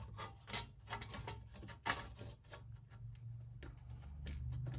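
Light, irregular clicks and ticks of a lawn mower's recoil starter being handled as the new pull cord is threaded in and the parts eased into place.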